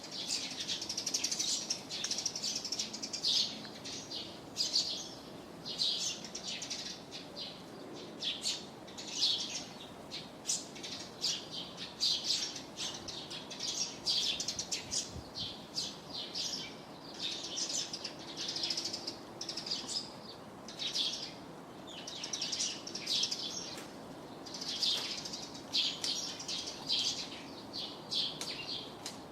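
Small birds chirping, short bursts of high chirps repeating about once a second, over faint steady outdoor background noise.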